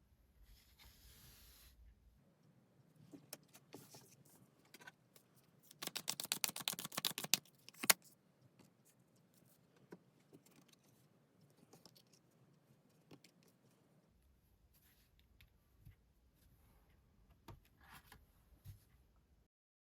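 Tarot cards being handled: soft clicks and rustles, with a quick run of rapid card flutters about six seconds in, ending in one sharp snap near eight seconds.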